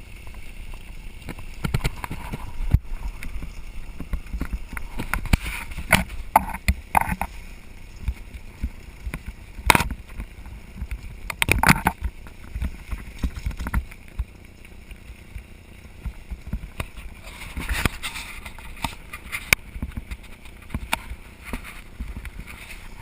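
Mountain bike ride on a dirt trail: wind rumbling on the microphone, with the bike rattling and knocking over rough ground and a few louder bangs.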